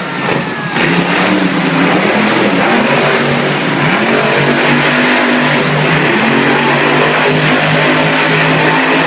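Monster truck engine running loud at high revs, its pitch wavering up and down.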